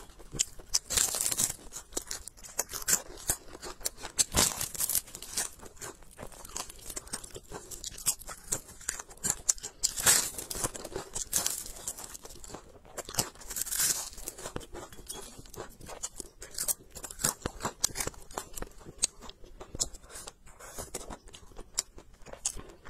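A person chewing spicy cured duck meat with her mouth closed: a steady run of small wet clicks and smacks, with a few louder hissing moments.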